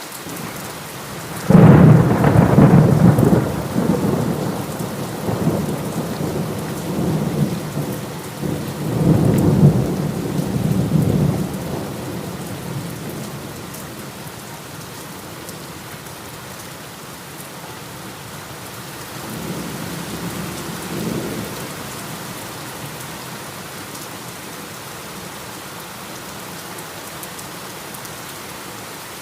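Heavy rain falling steadily through a thunderstorm. About a second and a half in, a loud clap of thunder breaks and rumbles on for about ten seconds, swelling again partway through. A fainter roll of thunder follows a little later.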